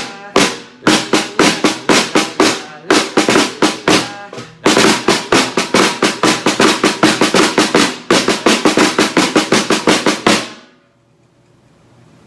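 Tarola (snare drum) playing fast strokes and rolls, then stopping suddenly near the end. The stop is the cue in a freeze game to stand still.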